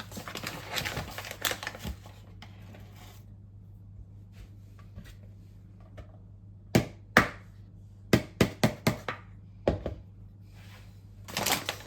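Kitchen utensils worked against a mixing bowl while flour is measured into bread dough: a few seconds of rustling and scraping, then sharp knocks, two at first and then a quick run of five, like a measuring cup or spoon tapped on the bowl's rim.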